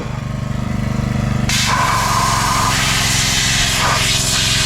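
Engine-driven pressure washer running steadily; about a second and a half in, the spray starts with a loud hiss as the jet blasts mud off the tractor.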